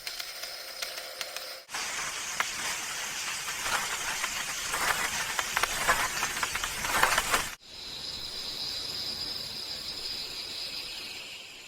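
Edited ambience cut together from three pieces: a steady high-pitched hum, then a loud crackling hiss that starts and stops abruptly about two seconds in and seven and a half seconds in, then the steady high hum again.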